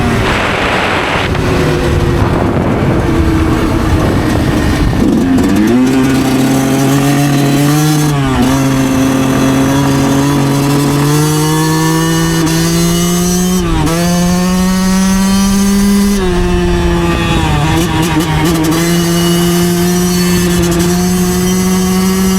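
2009 Yamaha YZ125 two-stroke single-cylinder engine running under way. Its pitch drops just at the start, then holds fairly steady, with several brief dips and recoveries along the way.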